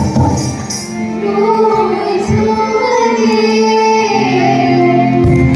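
Girls singing a kajri folk song in long held notes that slide between pitches. A tambourine shakes through the first second, and after it stops a steady low drone carries on under the voices.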